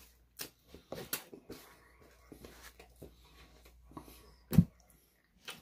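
Soft chewing and mouth sounds of someone eating a piece of baklava, with scattered small clicks and one louder short knock about four and a half seconds in.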